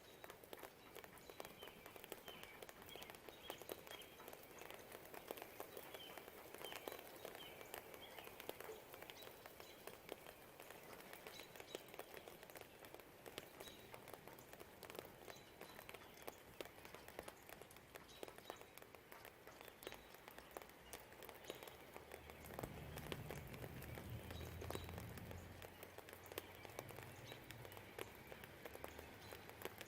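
Faint light rain pattering and dripping, with scattered birds chirping in the first several seconds. A low rumble swells and fades from about two-thirds of the way in.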